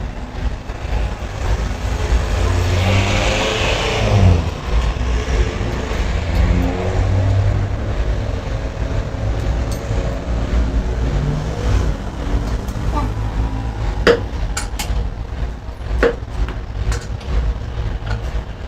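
A vehicle engine running with a steady low rumble, with a few sharp knocks late on.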